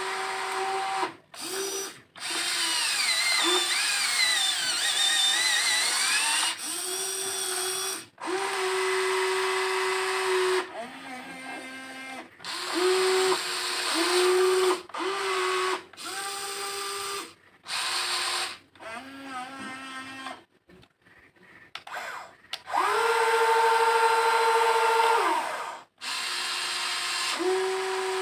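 Electric motors of a WLtoys XK 16800 RC toy excavator whining in repeated bursts of one to a few seconds, starting and stopping as the boom, arm and bucket are worked, some whines sliding in pitch as the load changes; one longer, louder whine near the end.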